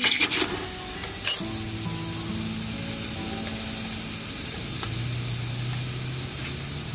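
Food sizzling steadily in a hot pan. A couple of sharp clatters come in the first second and a half, over background music with held notes.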